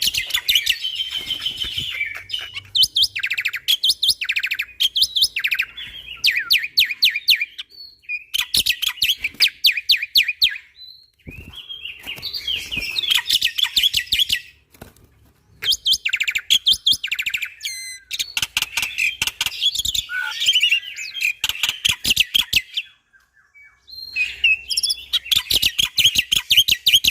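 Black-winged myna (jalak putih) singing in loud phrases of rapid, rattling chatter and trills, each a second or few long. Short pauses fall between the phrases.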